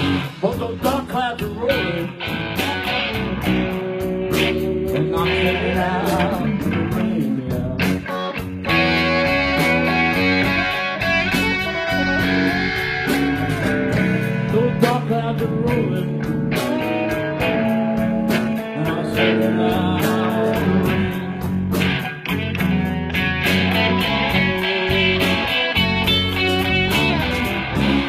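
Blues band playing a guitar-led passage with bending notes over bass and a steady drum beat.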